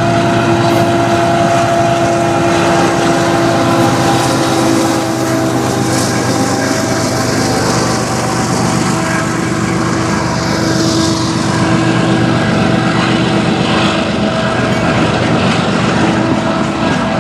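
A CN freight train passing at close range: the GE ET44AC and ES44AC diesel-electric locomotives go by first, then the manifest's boxcars, tank cars and flatcars roll past on the rails. A steady tone runs through the rumble.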